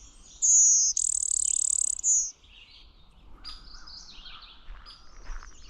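Blue-winged warbler song: a loud two-part buzz of about two seconds, a thin high buzz followed by a coarser, lower one. Fainter chirps of other birds follow.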